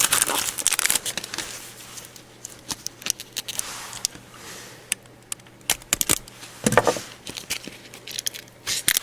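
Mail packaging being handled and opened: paper and plastic crinkling and rustling, with some tearing and small sharp clicks.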